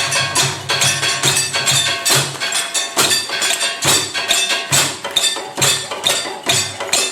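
Live percussion-driven music: a quick, steady beat of sharp, woody strikes over a pulsing low bass line, which drops out briefly about three seconds in.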